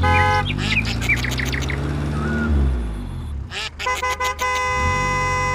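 Low engine hum with birds chirping over it; the hum sinks and dies away about three seconds in. Then a horn sounds, a few short toots and then a long steady blast.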